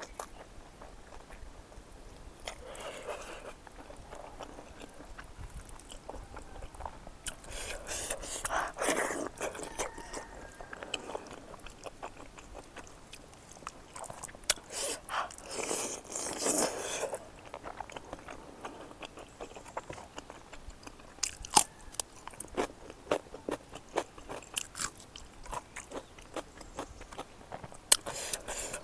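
Close-up mouth sounds of a person chewing smoked pork fat cooked with perilla and axone: many short wet clicks, with a few longer, louder stretches of noise. Fingers mixing food in a wooden bowl add to it.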